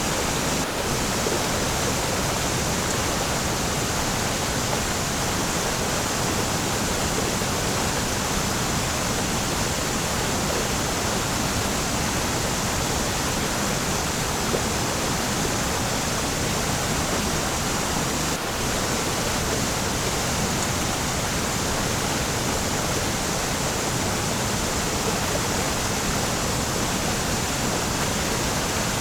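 Waterfall: a steady, unbroken rush of falling water, an even hiss spread from deep rumble to high fizz.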